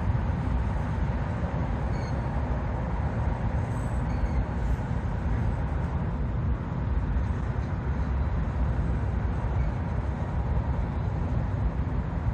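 Long freight grain train rolling past at low speed, a steady low rumble of the cars on the rails.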